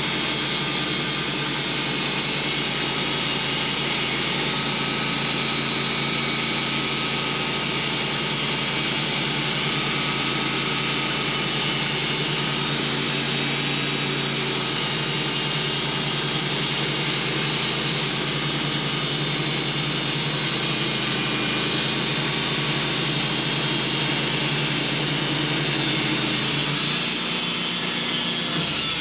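Sawmill running under steady load as its new carbide blade cuts slowly through a hard hickory log: a continuous engine hum under the hiss of the blade in the wood. The engine note shifts slightly near the end.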